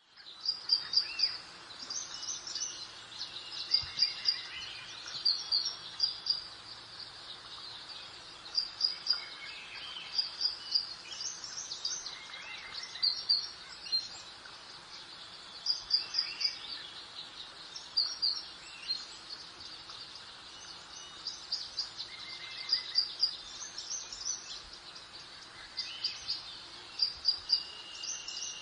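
Songbirds chirping and singing, short high notes in quick clusters repeating every second or two, over a steady soft background hiss like a light breeze. The sound fades in at the very start.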